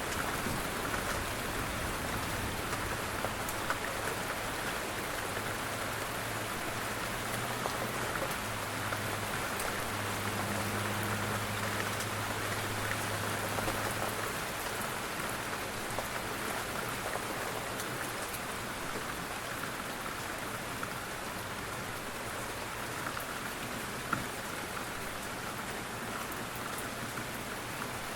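Steady rain falling, with individual raindrops ticking sharply through the even hiss. A low steady drone sits underneath during the first half.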